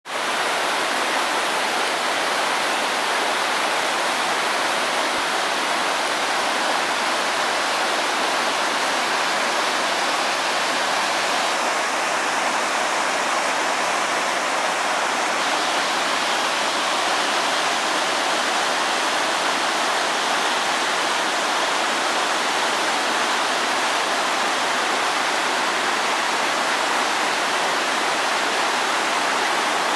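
Kleivafossen waterfall: water falling heavily, a loud, steady rush that does not change.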